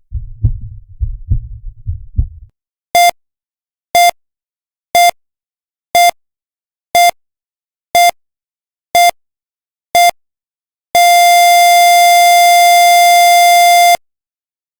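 A rapid heartbeat thumps for about two and a half seconds. Then a heart-rate monitor beeps once a second, eight beeps, and goes into a long unbroken flatline tone for about three seconds, the sign that the heart has stopped.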